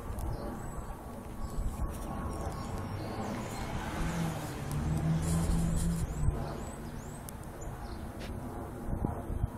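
Street traffic noise with a vehicle passing, its low engine hum loudest in the middle. Faint short bird chirps are heard over it.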